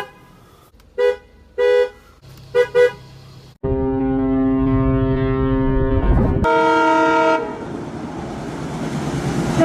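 A run of vehicle horns: several short honks in the first three seconds, then a long steady horn blast over a low rumble, cut off at about six and a half seconds by a shorter, higher-pitched blast.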